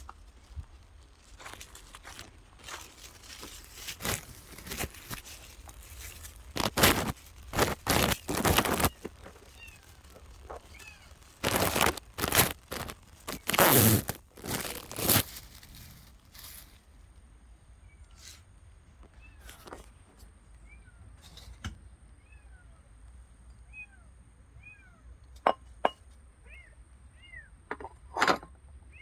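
A cat mewing over and over in short, faint, rising-and-falling calls. Loud bursts of rustling and crackling come through the first half.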